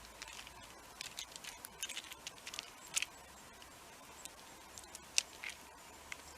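Scattered light clicks and taps at a bird and squirrel feeder, irregular and sharp, the loudest about three seconds in and about five seconds in.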